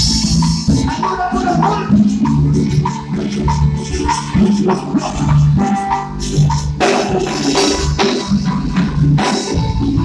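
A live cumbia band playing an instrumental passage, with a bass line, drums and shaken percussion such as güiro or maracas.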